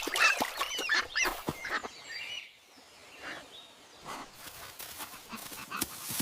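Cartoon duck quacking and honking in a quick run of short calls, fading to a few scattered sounds, then calling again near the end.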